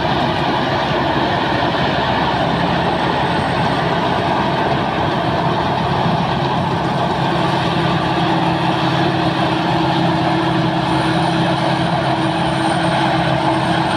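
Sakpattana KM-D rice combine harvester running steadily under load as it harvests, a dense, even engine and threshing-machinery noise with a faint high whine.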